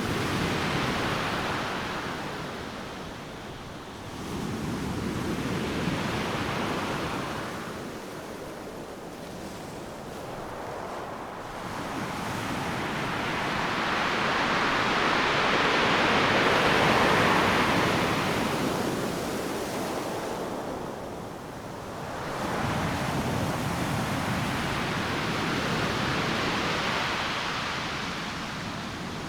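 Ocean surf: waves breaking and rushing in one after another, four swelling and fading surges of noise, with the longest and loudest building through the middle.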